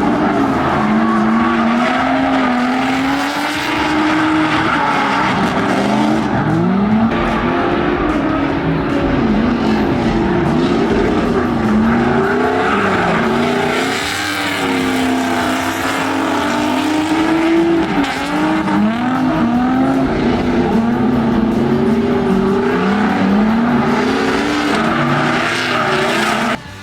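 LS-swapped V8 engine of an Audi B8 S4 drift car revving up and down again and again, over screeching tyres as the car drifts. The sound cuts off sharply just before the end.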